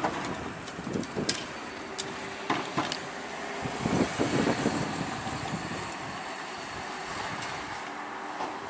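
Paragon satellite garbage truck running steadily, with a few sharp clicks in the first seconds and some low knocks around the middle.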